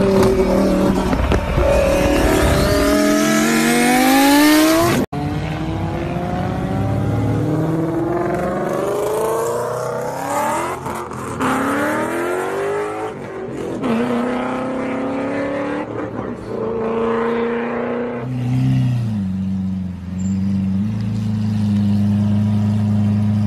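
Car engine revving up in repeated rising sweeps, like a car accelerating and shifting up through gears, then holding a steady low drone near the end. The sound cuts out for an instant about five seconds in.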